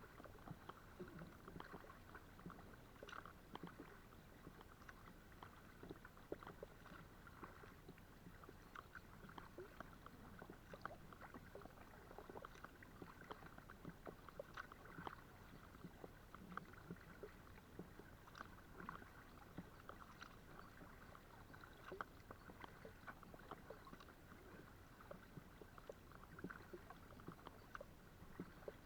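Faint water sounds of a kayak being paddled: many small splashes, drips and ticks of water from the paddle and around the hull, scattered without a clear beat.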